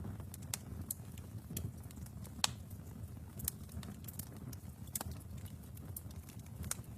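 Wood fire in a fireplace crackling: scattered sharp pops and snaps over a low, steady rumble of the flames. The loudest pop comes about two and a half seconds in.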